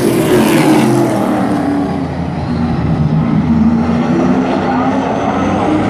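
Race truck engines running hard on a short oval. The engine pitch falls over the first two seconds, then holds and climbs again as the throttle comes back on.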